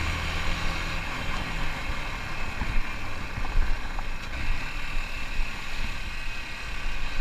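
Motorcycle engine running while riding; its steady note is plain for about the first second and a half, then sinks under a rough, uneven low rumble.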